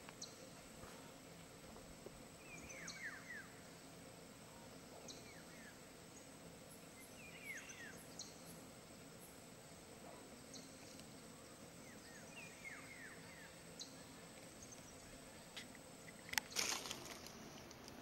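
Faint forest ambience in which an unseen bird repeats a short call of several quick falling notes every few seconds. Near the end comes a brief, loud cluster of knocks and rustling.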